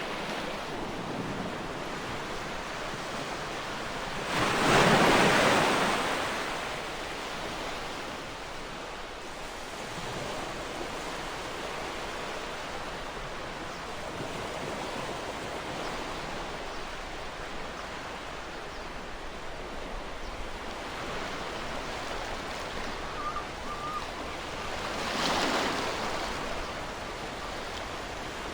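Ocean surf: a steady wash of water, with a wave breaking loudly about five seconds in and another, weaker one near the end.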